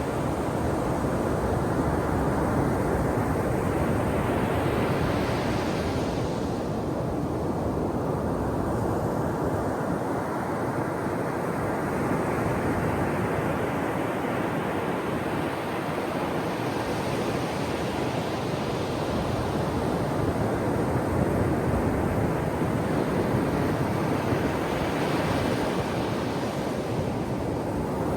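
Ocean surf washing on a shore in a continuous rush. Three waves swell and break about 6, 17 and 26 seconds in.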